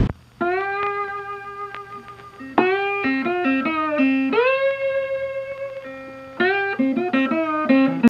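Solo slide-guitar music: a few short phrases of plucked notes with pitch glides, the longest note held about a second and a half in the middle.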